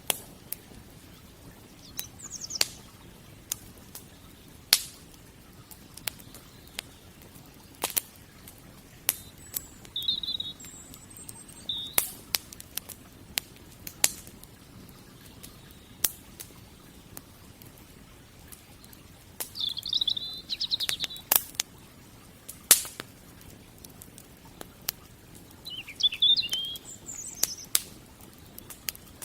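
Wood fire crackling with sharp, irregular pops. Small birds chirp in short bursts several times, most strongly about two-thirds of the way through.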